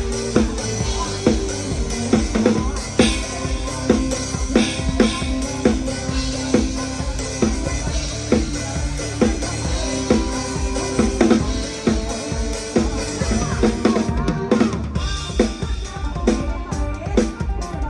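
Live band music led by a PDP acoustic drum kit, with a steady beat of bass drum, snare and rimshot strokes under sustained bass and keyboard-like notes, captured on a phone microphone.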